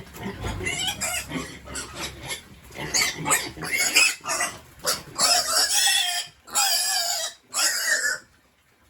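Pig squeals, short at first and then three long, loud squeals near the end that stop abruptly.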